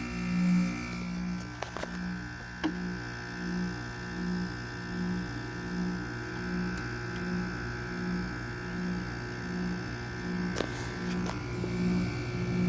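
Window air conditioner with a Rechi rotary compressor running, a steady hum with a low drone pulsing about one and a half times a second, a higher whine entering about a second in, and a few faint clicks. The owner thinks the unit is running a little low on refrigerant charge.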